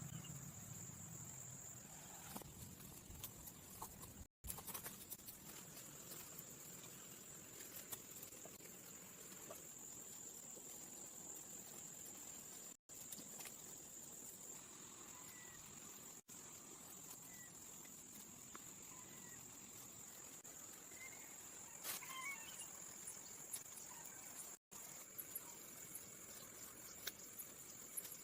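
Faint, steady, high-pitched insect trill of the cricket kind, with scattered light clicks and a few short chirps. The sound drops out briefly four times.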